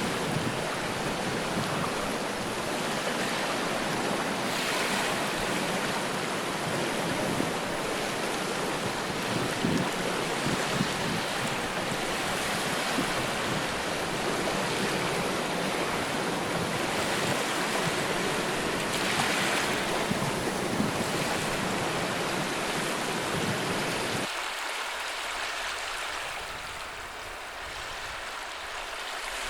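Ocean surf washing ashore in a steady rush that swells and eases every several seconds. About 24 seconds in it switches abruptly to a thinner, higher hiss with the deep rumble gone.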